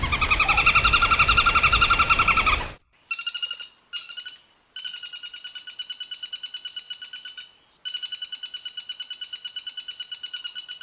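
Woodpecker calling in rapid rattling trills of even, high notes, about eight notes a second, in several runs of one to three seconds with short breaks between them. The first run, lasting nearly three seconds, is louder and rougher than the later ones.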